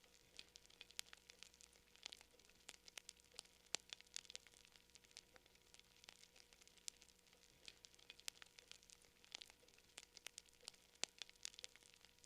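Wood campfire crackling softly: irregular sharp pops and snaps, several a second, over a faint hiss.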